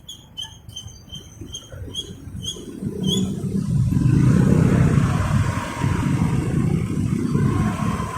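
Motorcycle engine and traffic noise with wind on the microphone, swelling sharply about three seconds in as the bike pulls away and speeds up. Before that, a quick run of short, high chirps repeats about two or three times a second and stops.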